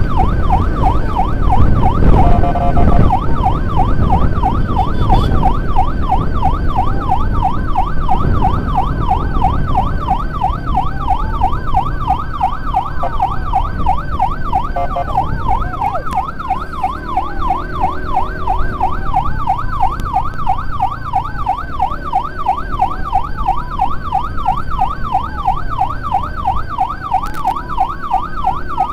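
Two emergency sirens sounding together on an ambulance escort: one a fast warbling yelp, the other a slower wail rising and falling every few seconds. Low engine and road rumble runs underneath, heavier in the first several seconds.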